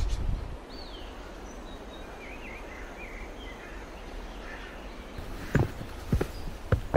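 Outdoor background with small birds chirping a few times. About five seconds in, a few short thuds of footsteps as the person filming walks.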